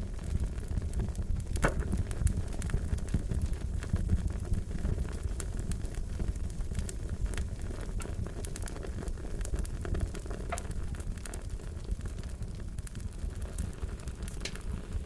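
Wood fire crackling, a steady low rumble of flame with many scattered sharp pops and snaps, a few louder ones about a second and a half in and again about ten seconds in.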